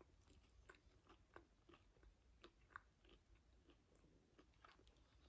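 Faint chewing of crispy breaded plant-based nuggets, with soft crunches about three times a second.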